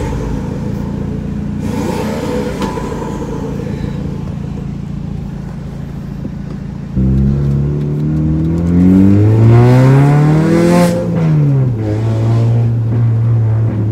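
Mini Cooper's four-cylinder engine idling, then revved up steadily for about three seconds and dropped quickly back to a steady idle.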